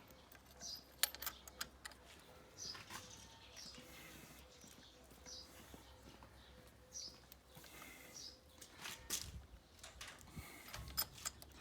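Faint scattered clicks and taps of hand tools being handled during spark plug work, with a few short bird chirps in the background.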